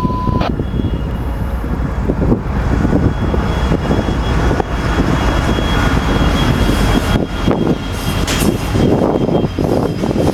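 Union Pacific freight train led by GE ES44AC diesel-electric locomotives, running with a loud, steady low diesel rumble. A thin, steady high tone sits over the rumble for most of the time.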